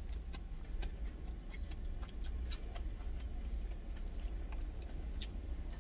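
Eating sounds: chewing with scattered small clicks and smacks, over a steady low rumble.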